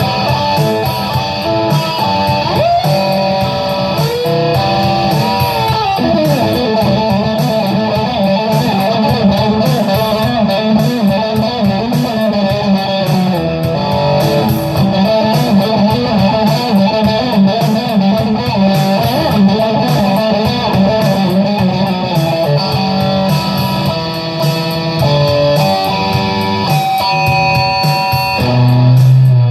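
Electric guitar playing improvised lead lines, single notes bent up and down and wavering with vibrato. A louder low note rings out near the end.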